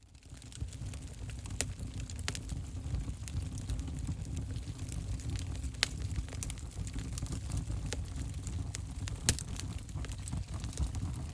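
Fireplace fire crackling: a steady low rumble of flames with irregular sharp pops and snaps, the loudest about nine seconds in. The sound rises in from a brief dropout at the very start.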